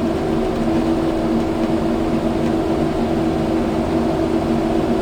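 Kubota skid steer's diesel engine running at a steady speed, a continuous even drone.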